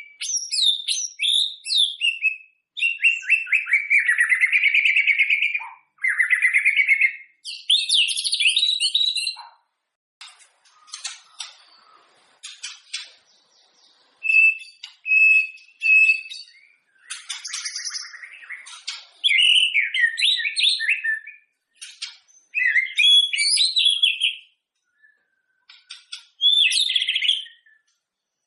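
White-rumped shama (murai batu) singing: a run of varied, fast phrases of whistles and chattering trills, broken by short pauses, with three clear, evenly repeated whistled notes around the middle.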